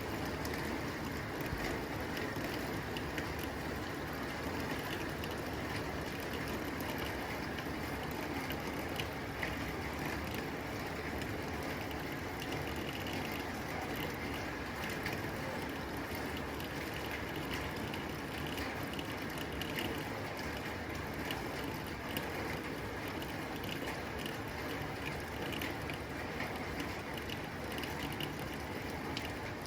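Steady rain falling on a tin roof: a dense, unbroken patter with many small sharp ticks of drops striking the metal.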